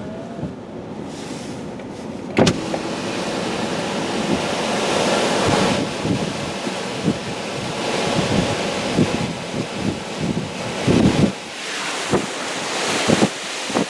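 Tropical-storm wind gusting hard, rising and easing in surges and buffeting the microphone, with scattered knocks and thumps throughout.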